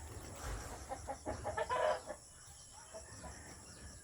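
Chickens clucking in a rapid series of short calls, with a louder, longer call about a second and a half in.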